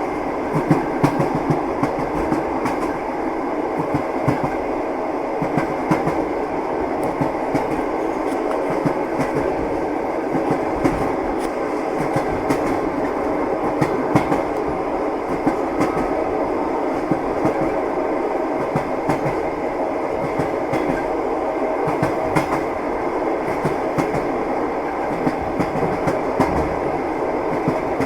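Train wheels clattering over the rails: a steady running noise with frequent, irregularly spaced clicks and knocks.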